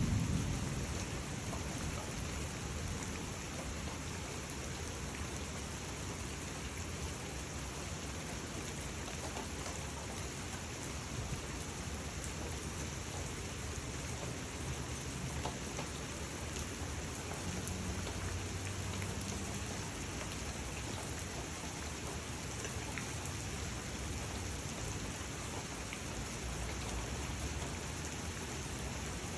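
Heavy rain falling steadily in a downpour, an even hiss. The tail of a low thunder rumble dies away in the first second.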